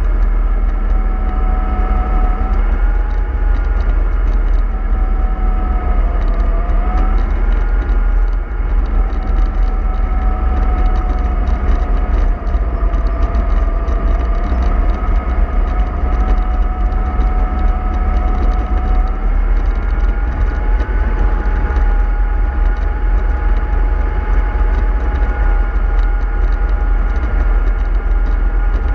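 An MAN 24.310 bus under way: a steady low engine rumble with a whine that drifts slowly up and down in pitch.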